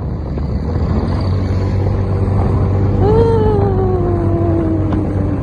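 Motorcycle running on the road with wind noise, a steady low hum throughout. About three seconds in, a long pitched tone comes in, rises briefly and then slowly falls in pitch until near the end.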